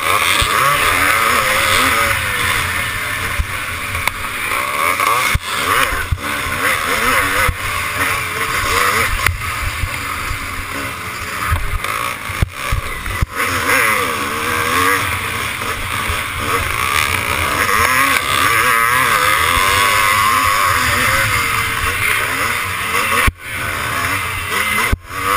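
Motocross bike engine running hard, its revs rising and falling over and over, with a few brief dips in the sound.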